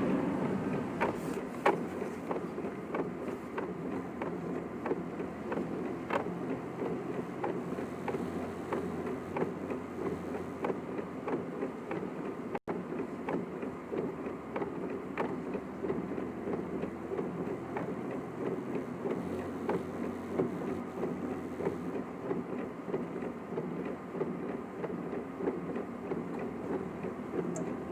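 Car driving, heard from inside the cabin: steady road and engine noise with scattered sharp ticks. The sound cuts out for an instant about halfway.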